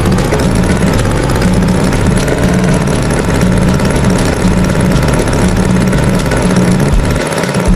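Tractor engine running at idle with a steady, rhythmic chug.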